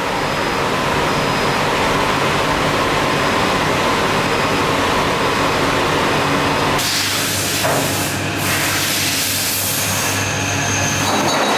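Loud, steady factory machinery noise. About seven seconds in, a loud hiss joins it over a low hum and runs to the end.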